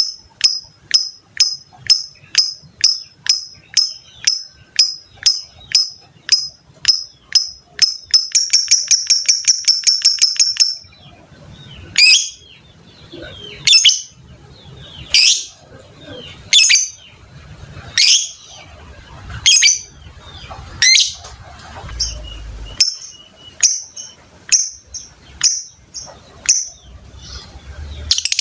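Lovebird calling. It gives sharp, evenly spaced high chirps, about two and a half a second. About eight seconds in these run into a rapid, continuous chatter (the long 'ngekek' trill) that stops near eleven seconds, followed by louder falling calls about every second and a half, which quicken into quick chirps again near the end.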